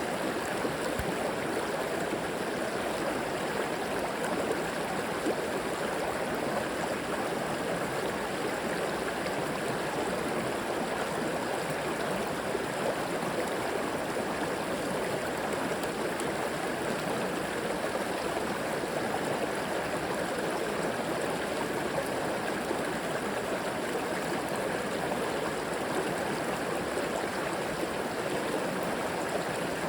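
A river flowing steadily over rocks, a continuous rushing and gurgling of water.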